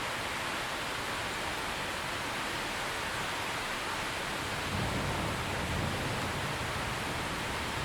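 Steady heavy rainfall, with a low rumble of thunder coming in about two-thirds of the way through.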